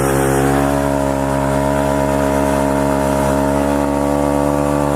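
Pit bike's single-cylinder engine revved up and held at a steady high pitch for several seconds, as in a burnout with the rear wheel spinning in place.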